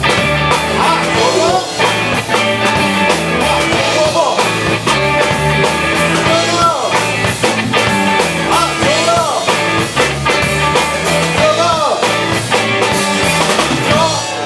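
A live rock band plays: drums, bass and guitar, with lead notes sliding up and down. The song stops abruptly near the end.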